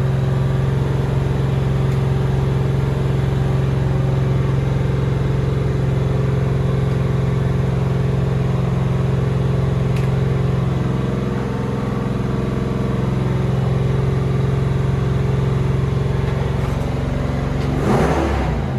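Doug Rippie Motorsports LT1 383 stroker small-block Chevy V8 running on an engine dyno, held at a steady speed with an even, unchanging note. There is a short burst of noise near the end.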